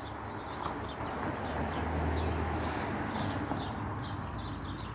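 A small bird chirping over and over, short high chirps about three or four a second, over a steady outdoor hiss and a low rumble that swells in the middle.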